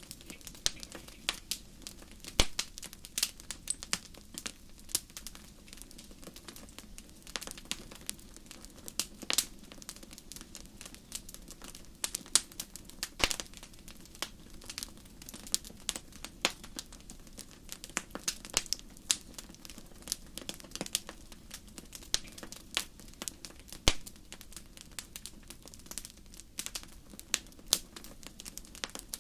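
Fire crackling in a fireplace: an irregular, continuous stream of sharp snaps and pops over a faint low rush, with a few louder pops about two, thirteen and twenty-four seconds in.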